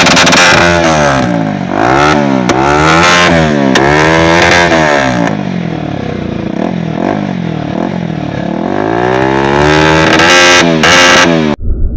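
Bajaj Pulsar NS200 single-cylinder motorcycle with an aftermarket rally exhaust, ridden hard on a dirt track. The engine revs climb and drop back over and over as the rider shifts up through the gears, then build in one longer climb. The sound cuts off abruptly near the end.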